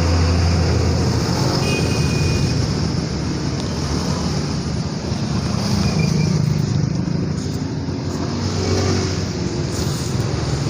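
Steady noise of road traffic passing close by: engine rumble and tyre noise from vehicles on a main road.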